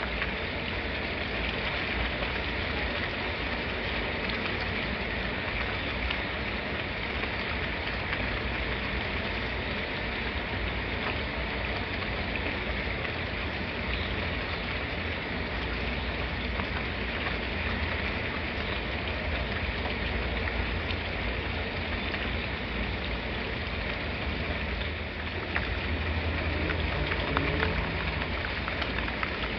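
Steady rain falling, a dense even hiss with scattered small drop ticks and a low rumble underneath, slightly louder near the end.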